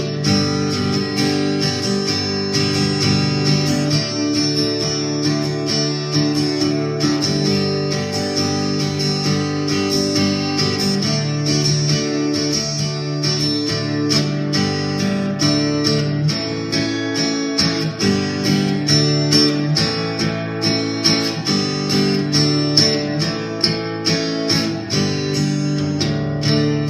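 Instrumental break of a song: acoustic guitar strumming chords, with no singing.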